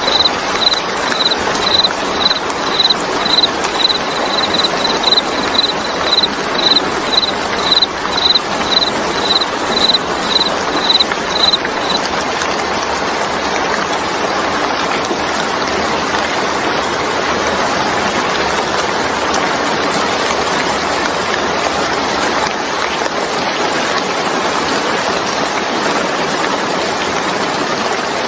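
Steady rain, a continuous hiss of falling water. Over it, a high chirp repeats about two to three times a second and stops about twelve seconds in.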